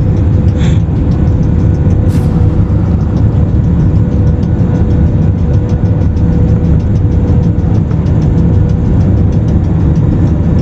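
Steady, loud low rumble of an airliner's cabin noise in flight, mixed with background music that has a regular ticking beat.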